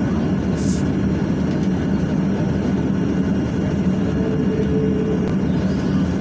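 Boeing 737-800's CFM56 jet engines running at takeoff power, a steady, even roar with no change in pitch or level.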